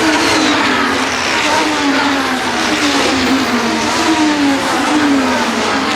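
Several 2025 Formula 1 cars' turbocharged V6 hybrid power units going past at speed in quick succession, their overlapping engine notes falling in pitch one after another.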